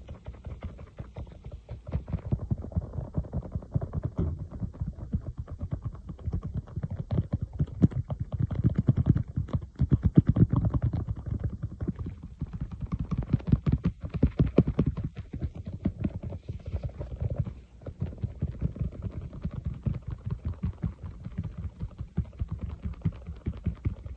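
Fingertips tapping rapidly on an iPad, many dull close-miked taps a second, growing louder for a few seconds in the middle.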